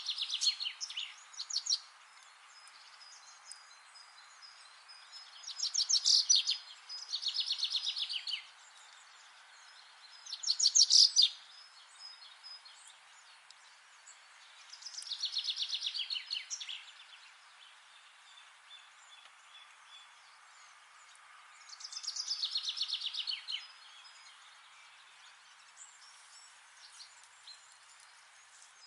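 A songbird singing short phrases of rapid trilled notes, each a second or two long, six times with pauses of a few seconds between, over a faint steady background hiss.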